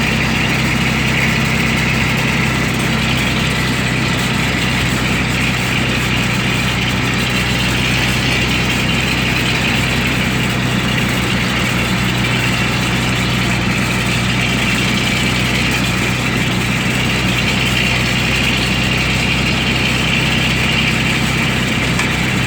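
Bedford truck's engine running at a steady, even pitch, with no revving or gear changes.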